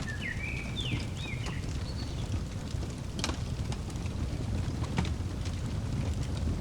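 Fireplace crackling, with a few sharp pops over a steady low rumble; a bird gives a quick run of short sliding chirps during the first two seconds.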